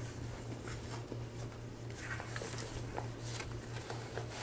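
Hands rummaging in a bag's pocket: soft rustling and small scattered ticks and scuffs, over a steady low hum.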